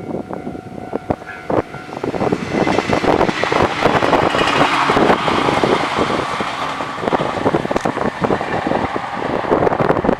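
JR Kyushu 817 series electric train passing close by: a dense rush of running noise with rapid wheel clicks, swelling about two seconds in and staying loud.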